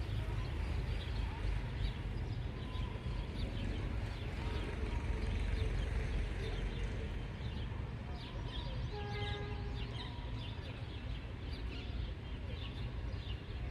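Steady low rumble of an Indian goods train rolling past, with many short bird chirps over it and a brief steady-pitched tone about nine seconds in.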